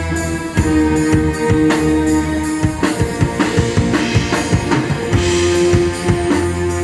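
A live band playing an instrumental passage: drum kit with a steady kick-and-snare beat, held bass and guitar notes underneath, and chords that change every second or two.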